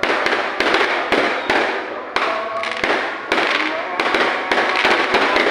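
Fireworks going off in a continuous barrage: a rapid string of sharp bangs, a few each second, with crackling between them.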